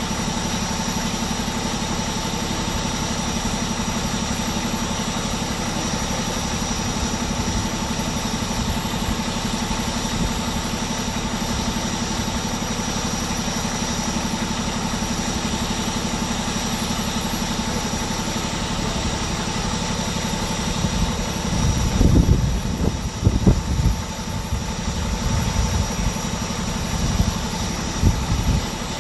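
Vehicle engine idling steadily, with a few irregular low thumps on the microphone near the end.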